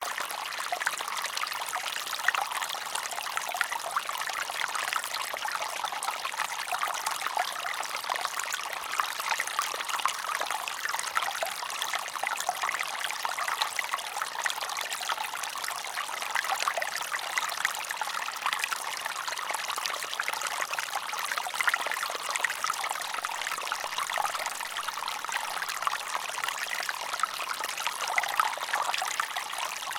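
Running water trickling steadily: a dense, even patter of small splashes with little low rumble.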